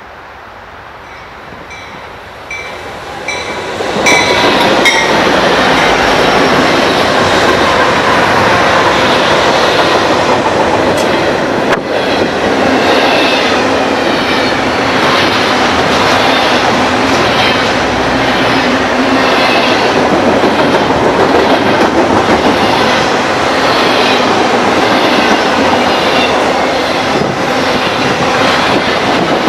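A train passing at close range on the mainline. It comes on louder over the first four seconds, then runs loud and steady, its wheels clicking in a regular rhythm over the rail joints.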